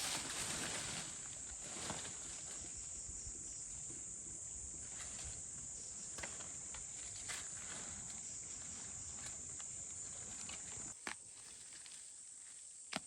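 Quiet outdoor ambience: a steady high-pitched hiss with scattered light clicks, and a few sharper taps near the end.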